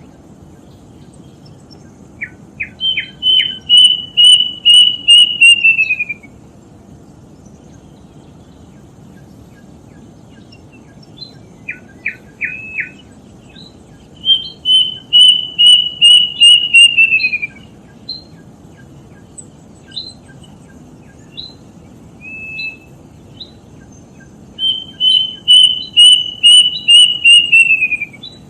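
Kedasih cuckoo singing three times, each song a run of about eight loud, clear whistled notes that slide lower in pitch at the end, led in by a few short notes. Scattered short calls come between the songs over a steady low hiss.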